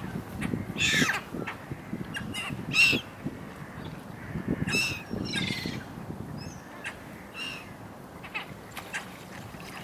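A flock of gulls calling over one another: many short, high calls in quick succession, thickest in the first five seconds and thinning out after.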